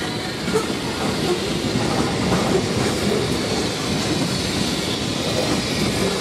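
Freight train's tank cars rolling steadily past: a constant rumble of steel wheels on rail with clickety-clack clatter and a faint high wheel squeal.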